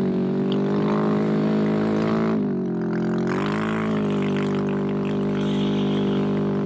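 Can-Am Renegade ATV's V-twin engine running at steady high revs. About two and a half seconds in, the revs drop briefly and then climb back.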